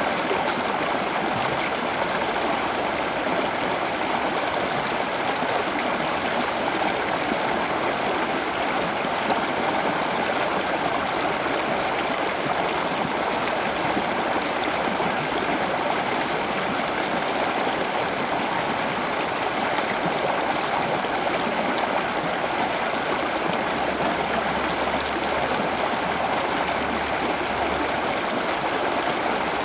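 Steady rush of flowing water, like a stream or small waterfall, with an even level throughout.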